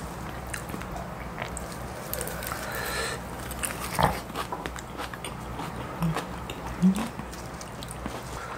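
Close-miked chewing and mouth sounds of people eating fresh lettuce and perilla-leaf wraps of raw fish, with light clicks of chopsticks. There is a sharp click about four seconds in and two short low hums a little later.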